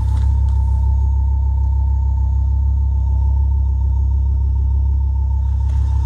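Ford Focus ST225's turbocharged five-cylinder engine running with a deep rumble and a steady high tone on top. This abnormal noise comes from a faulty PCV valve and appears under intake vacuum, most noticeably at idle and low revs.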